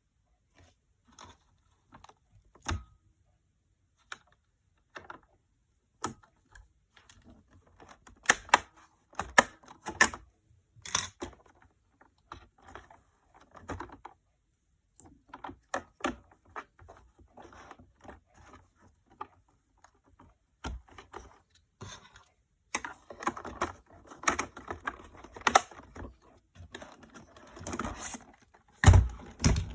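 Irregular clicks and light clattering knocks of hard objects, sparse at first and denser in the second half, with the loudest knock near the end.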